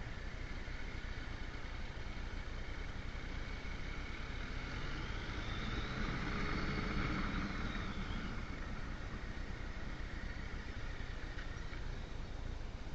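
Motorcycle on the move: steady engine and wind rush. The sound swells for a few seconds about halfway through, with a tone that rises and then falls.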